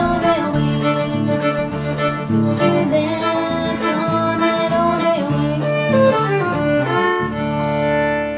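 Instrumental string-band music, fiddle over strummed guitar, in a country or bluegrass style; the playing settles into a held chord near the end.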